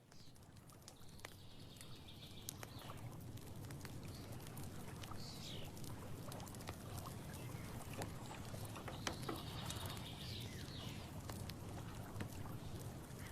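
Outdoor nature ambience: a bird calls twice, a rapid high trill each time about eight seconds apart, with a few shorter falling calls between. Faint scattered ticks and patters sit over a low steady rumble.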